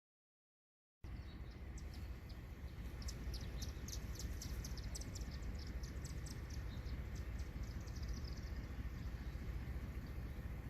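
Outdoor ambience that cuts in about a second in: many quick, high bird chirps over a steady low rumble. The chirping thins out near the end.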